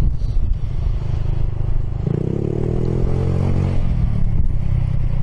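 Scooter engine through a slip-on Akrapovic exhaust with its baffle removed, accelerating about two seconds in: the engine note rises, holds for a couple of seconds, then eases off over steady road and wind noise.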